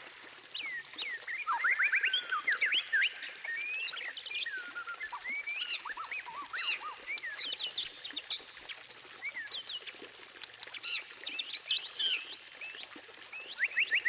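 White-rumped shama (murai batu) singing a fast, varied song of clear whistles, rising and falling glides and quick high-pitched runs, with a dense spell of rapid high notes about eleven seconds in.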